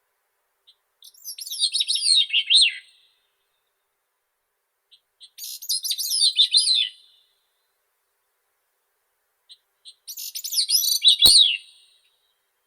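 Grey-cheeked thrush singing three high, thin songs about two seconds each, every song a run of notes that slide downward in pitch, with a few seconds of silence between them. A short click sounds during the last song.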